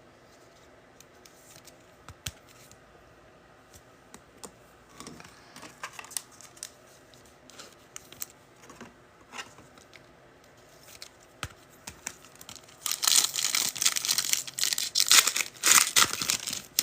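A trading-card pack's foil wrapper being torn open and crinkled, loud for about three seconds near the end, after a long stretch of faint handling clicks.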